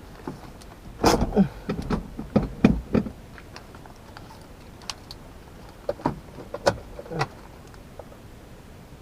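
Clunks, clicks and rattles from handling in a truck cab before the engine starts. They come in a cluster of sharp knocks about a second in and another burst around six to seven seconds.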